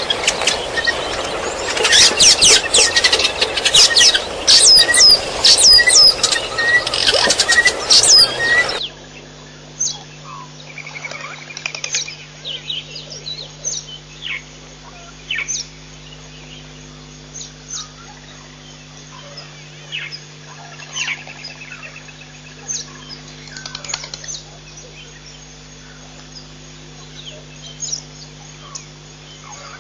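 Wild birds calling: a loud, busy chorus of repeated chirps for about the first nine seconds, then it cuts off abruptly to a quieter scene with scattered single chirps over a low steady hum.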